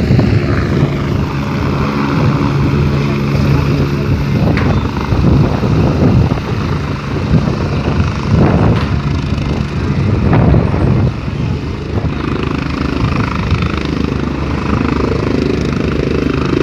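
Airplane engines running steadily as the aircraft taxis to a stop, with a low steady hum that is strongest in the first few seconds.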